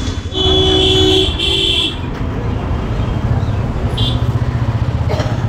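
A vehicle horn honking twice, a longer blast then a short one, over the steady low rumble of road traffic.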